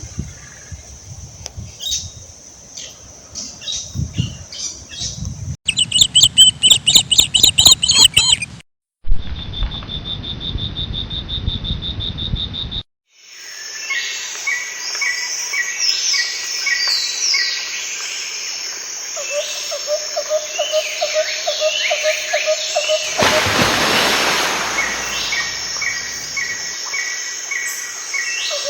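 Outdoor wildlife ambience built from several cut-together clips of birds singing and calling. About six seconds in there is a loud bout of quickly repeated calls. This gives way to a steady high buzz, and then to a dense chorus of several birds singing over one another.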